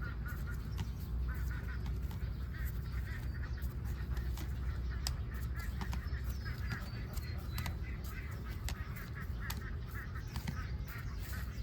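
A flock of ducks quacking, many short calls overlapping continuously, with scattered clicks and a steady low rumble underneath.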